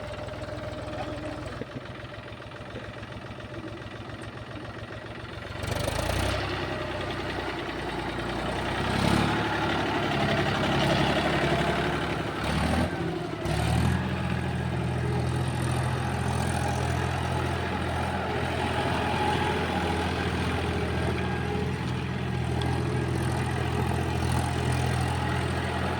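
Mahindra tractor's diesel engine running. It gets louder about six seconds in and shifts and dips briefly around twelve to fourteen seconds, then runs at a steady note.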